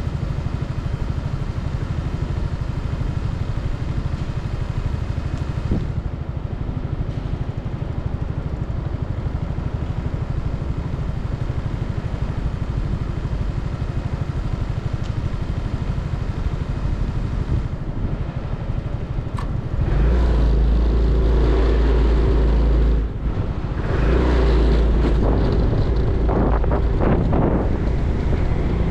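Motorcycle engine idling steadily, then about 20 seconds in it revs up and pulls away, accelerating with a brief drop near a gear change before running louder again.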